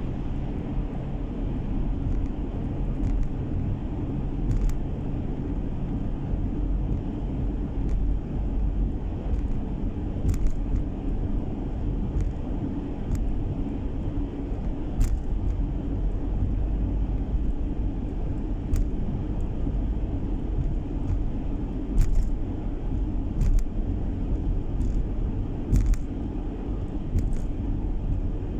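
Steady low rumble of a car driving along, engine and tyre noise heard from inside the cabin, with scattered short clicks throughout.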